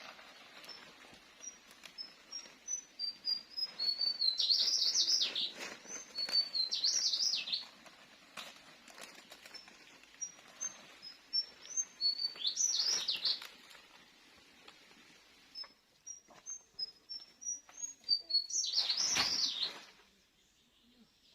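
A songbird singing three times. Each song is a run of short, high, thin notes that steps upward, then a louder warbled phrase about a second long. Scattered faint knocks sound underneath.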